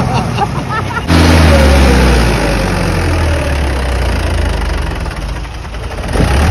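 Mahindra tractor's diesel engine running loudly close by. It cuts in suddenly about a second in, its pitch settles slightly lower, and it then holds steady.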